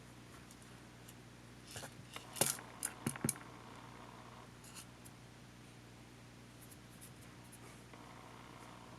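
Small parts and tools clicking and tapping as a camcorder is taken apart by hand: a quick run of sharp clicks about two to three seconds in, then a single small tick, over a steady low hum.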